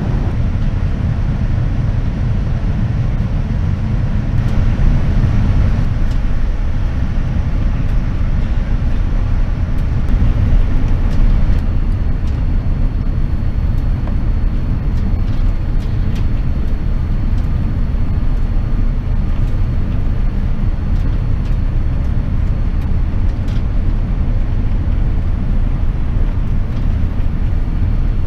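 Steady low rumble inside the cabin of a Boeing 787-9 airliner in flight, engine and airflow noise, with a few faint clicks and slight swells in loudness.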